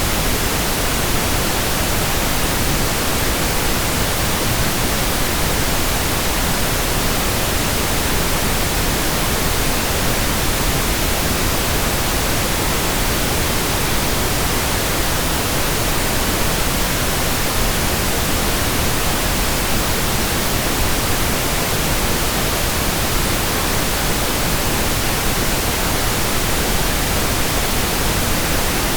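Steady pink noise: an even, unchanging hiss, fuller in the low end than white noise.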